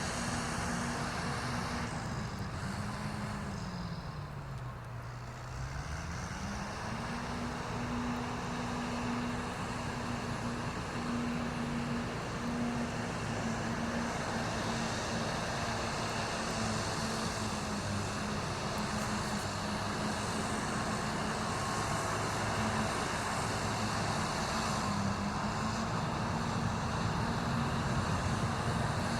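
Caterpillar bulldozer's diesel engine running under steady revs. About four seconds in it drops in speed to roughly half, then climbs back up within a couple of seconds and holds steady again.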